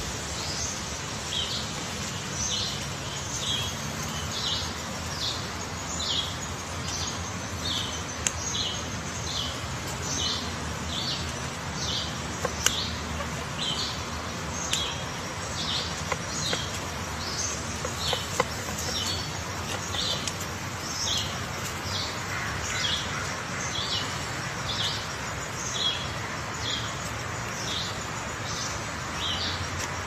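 A bird chirping over and over, short high chips about one to two a second, over a steady background hiss. A few sharp knocks come from a pileated woodpecker chiselling into a rotten stump.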